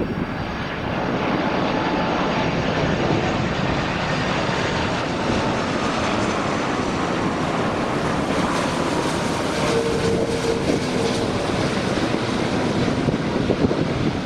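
Airbus A330-300 airliner's jet engines on landing approach, a steady rushing sound with a faint high whine that falls slightly in pitch early on.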